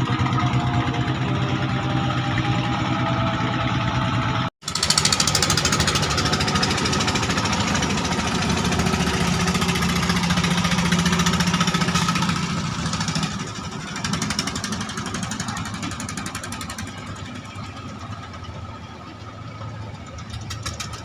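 Klotok river-boat engine running with a rapid knocking beat. After an abrupt cut a little way in, a louder engine is heard that fades over the last several seconds as the boat draws away.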